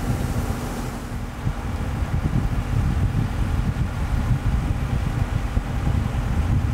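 Wind rumbling on the microphone in uneven gusts, with a faint steady hum underneath.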